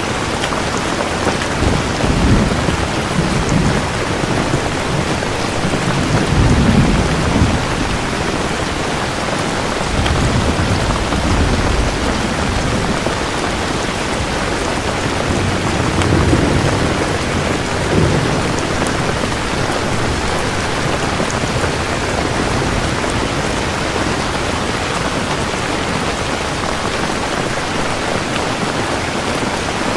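Steady rain falling hard, with low rolls of thunder rumbling up several times: a few seconds in, around a quarter of the way, again near the middle, and just past it.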